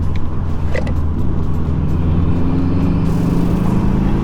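Subaru Impreza WRX's flat-four boxer engine running under way, its note climbing steadily through the second half as the car accelerates.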